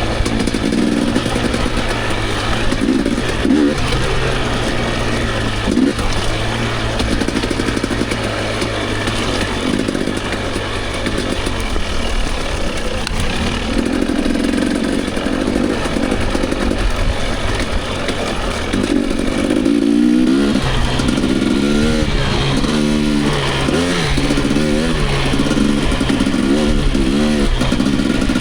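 Dirt bike engine running under way, holding a fairly steady note at first. From about twenty seconds in it revs up and down again and again.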